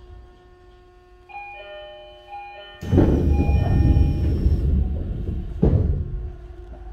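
Inside a Tokyo Metro 10000 series commuter train: an electronic chime of several stepped tones, then a sudden loud rumble with a hiss of air lasting about two seconds, and a single loud thump about three seconds in after that.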